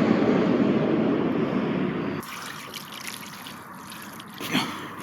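Water pouring steadily, stopping abruptly about two seconds in, followed by faint trickling and dripping.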